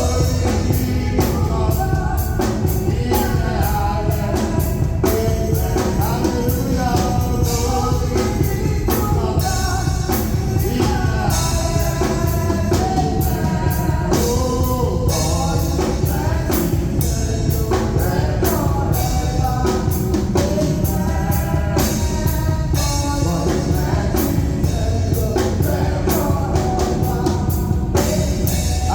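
Live gospel praise music: singing over a band with drum kit and guitar, played continuously at a steady loud level.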